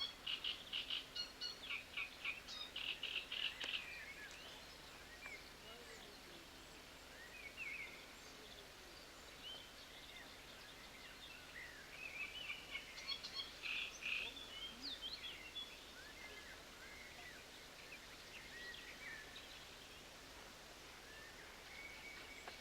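Small songbirds chirping and singing in quick bursts, busiest in the first few seconds and again a little after halfway, over a faint steady background hiss.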